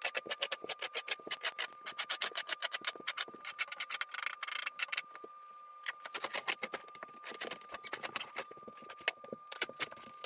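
A broom sweeping a floor: quick, repeated scratchy strokes, several a second, thinning out to scattered strokes about halfway through.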